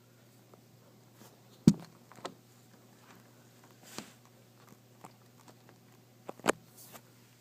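Scattered sharp knocks and taps, the loudest a thump about a second and a half in and another strong one near the end.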